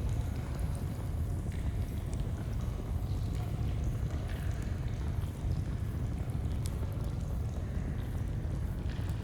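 Steady deep rush of a flowing stream, with scattered small crackles and pops from a campfire.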